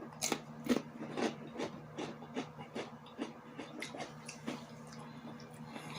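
A string of light, irregular clicks and scrapes, about two or three a second and getting softer, from hands handling food and utensils as the topped hot dogs are put together.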